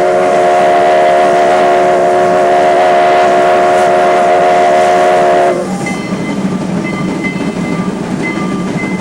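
Heisler #91 geared steam locomotive's chime whistle sounding one long, loud blast of several notes at once, cutting off suddenly about five and a half seconds in. After it comes the quieter running noise of the train.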